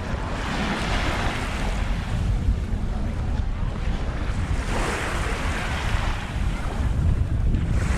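Small waves breaking and washing up the shore, the hiss swelling and fading every few seconds, with steady wind rumbling on the microphone.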